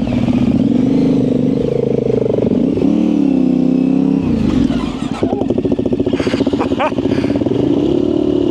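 Yamaha Ténéré 700's parallel-twin engine, through an aftermarket high exhaust, running on a trail ride, its pitch rising and falling as the throttle is worked. There are a few sharp clicks and clatters between about five and seven seconds in.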